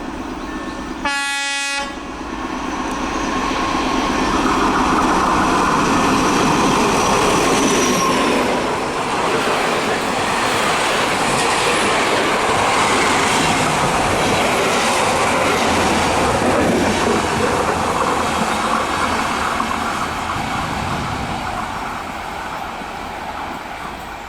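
A train sounds one short horn blast and then runs past the platform. The rumble and wheel clatter build up over a few seconds, stay loud for a long stretch, and fade toward the end.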